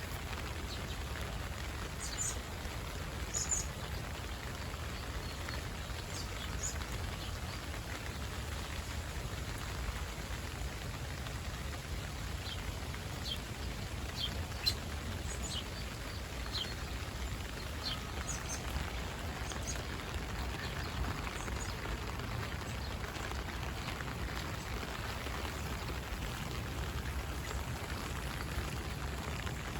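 Steady rain falling on an umbrella held overhead, with short bird chirps scattered through it, clustered near the start and in the middle.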